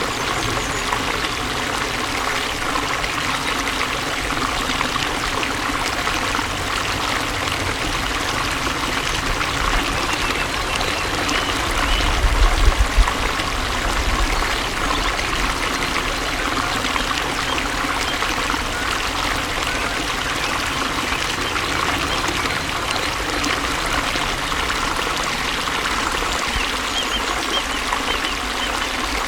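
Flowing water trickling and splashing in a steady rush, with a brief low rumble about twelve seconds in.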